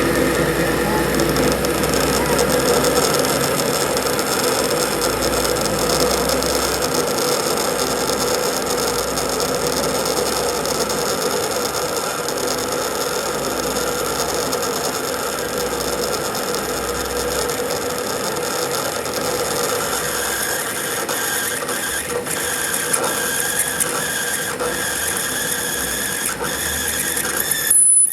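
A workshop machine running steadily with a gear-like whine for nearly half a minute, then stopping suddenly near the end.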